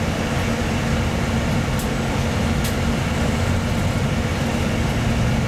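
Steady drone of a bus engine and its ventilation, heard inside the passenger cabin, with a low hum and a couple of faint ticks.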